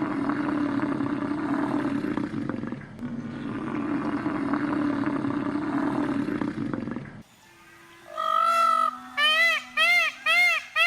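Two long, rough, roaring animal calls with a short break between them, stopping suddenly about seven seconds in. About a second later a different animal starts a run of short, clear, pitched calls, each rising and falling, repeating two to three times a second.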